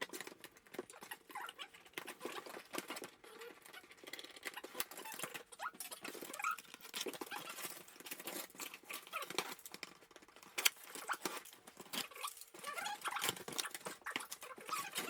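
Scissors cutting through packing tape and a cardboard box being opened by hand: a dense, continuous run of small clicks, crinkles and scrapes of tape and packaging.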